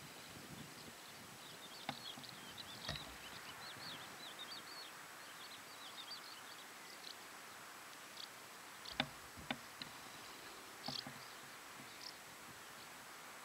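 Small birds twittering in quick chirps for several seconds over a steady outdoor hiss. A few short clicks or snaps come later, two of them about half a second apart near the middle.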